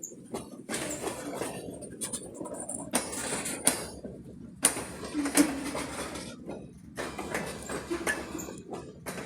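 Freight cars being switched: irregular metal clanks and knocks with bursts of rushing noise, the sharpest clanks a few seconds in.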